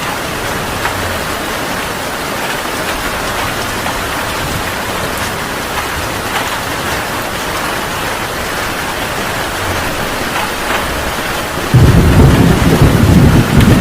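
Heavy rain falling steadily. About 12 seconds in, a loud, low rumble of thunder breaks in suddenly and keeps going.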